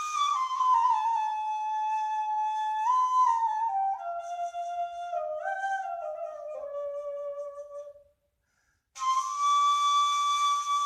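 Dilsiz kaval, a Turkish end-blown rim flute, playing an improvised melody. The line steps gradually downward for several seconds, stops for about a second, then comes back on a long held higher note.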